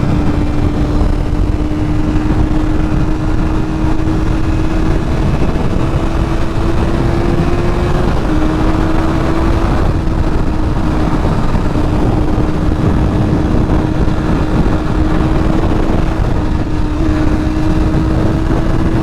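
Honda CBR sport bike's engine running at a steady cruise, its pitch creeping up and then dropping suddenly about eight seconds in with a gear change, under heavy wind rush on the helmet microphone.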